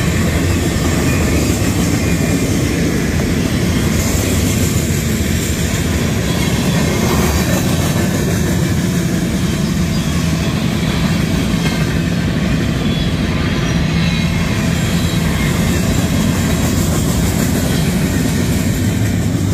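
A long mixed freight train's cars — boxcars, tank cars, covered hoppers and intermodal well cars — rolling past on steel wheels, a loud steady rumble of wheels on rail.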